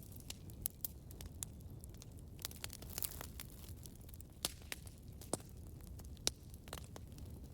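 Campfire burning with a low rumble and irregular sharp crackles and pops of burning wood, the loudest about four and a half, five and a half and six seconds in.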